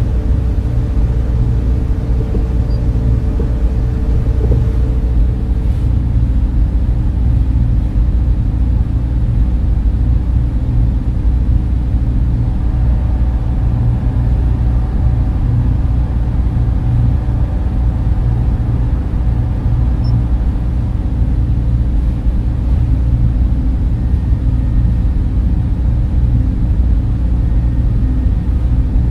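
Server room ambience: many cooling fans running in a steady, even whir, low and heavy in the bass with a faint hum of tones on top.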